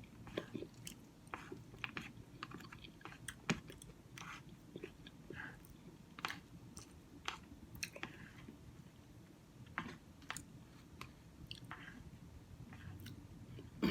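Faint close-up chewing of soft oatmeal, with irregular small wet mouth clicks.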